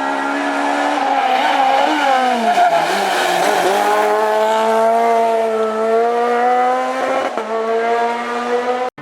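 Renault Clio R3 rally car's four-cylinder engine at full throttle: the pitch falls through downshifts about two to three and a half seconds in, then climbs steadily as the car accelerates hard, before a sudden cut near the end.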